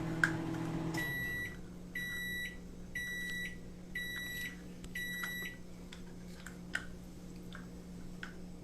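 Microwave oven's running hum cuts off, then it gives five electronic beeps about a second apart to signal the end of its cycle. A few faint clicks follow.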